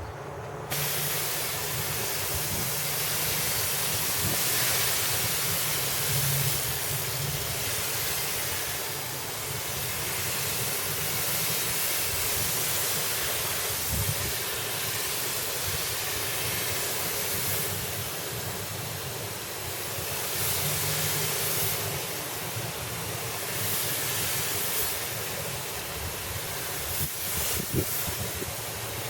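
Steady hiss of a sprayer spraying gelcoat, starting about a second in and holding on with small rises and falls in level.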